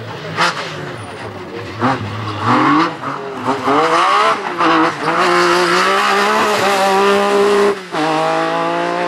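Group B rally car engine accelerating hard through the gears. The pitch climbs in several runs with short breaks at each gear change, and there are a few sharp cracks near the start.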